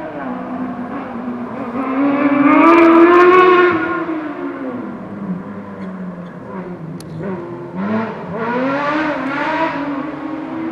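Small racing prototype car's engine revving hard through a slalom course, loudest as it comes close about two to four seconds in, its pitch dropping on a lift of the throttle and climbing again near the end.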